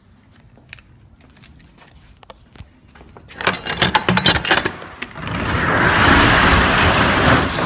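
Metal latch and handle of a 20-foot U-Haul box truck's rear roll-up cargo door rattling and clicking as it is unlocked. About five seconds in, the door slides up its tracks with a loud, steady metallic rattle that lasts about three seconds.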